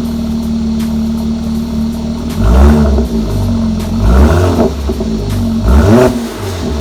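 Mercedes-Benz C450 AMG's twin-turbo V6 idling through its exhaust, blipped three times, each rev rising and dropping quickly back to idle.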